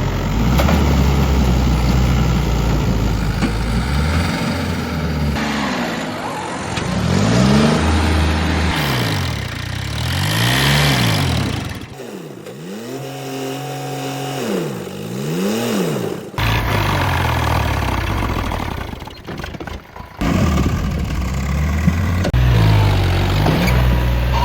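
Tractor diesel engines revving up and falling back again and again, in several short cut-together stretches that break off abruptly.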